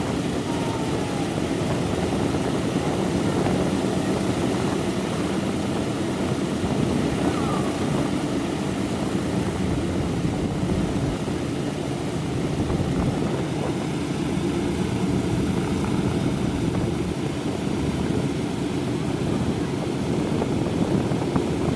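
Radial piston engines of a World War II four-engine bomber running steadily, propellers turning, with no change in speed.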